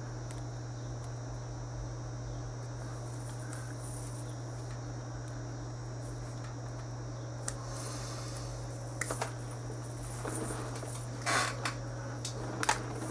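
A steady low hum with a thin high whine over it, and a few short sharp clicks in the second half from butted maille rings being worked apart by hand.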